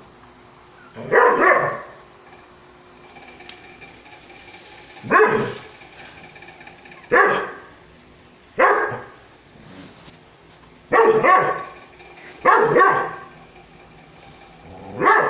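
A dog barking: about seven separate barks, spaced a few seconds apart, some of them coming as quick doubles.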